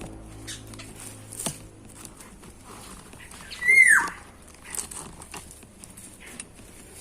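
A bird gives one loud call that falls sharply in pitch, about halfway through, over faint scattered rustling and small clicks.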